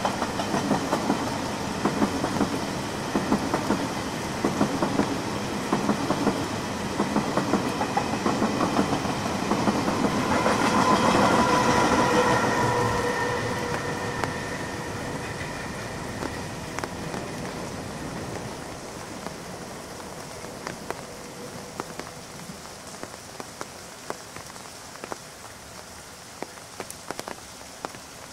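Push-pull Tze-Chiang express train passing at speed, its wheels clicking rapidly over the rail joints. About ten seconds in, the rear electric power car goes by with a steady whine, and the sound then fades slowly as the train draws away, leaving rain pattering on an umbrella.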